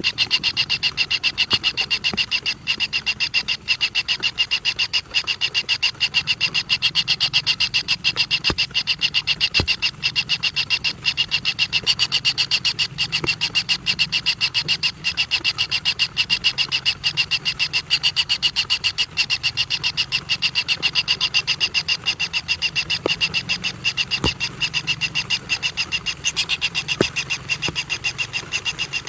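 A steady chorus of fast-pulsing animal calls, high-pitched, with a lower pulsing layer underneath and a few scattered clicks.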